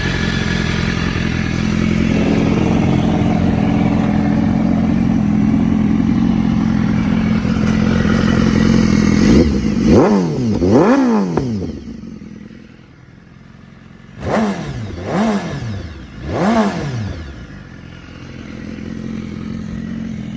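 2017 BMW S1000RR's inline-four engine idling, with two quick throttle blips about ten seconds in and three more a few seconds later, each rev rising and falling sharply before it settles back to idle.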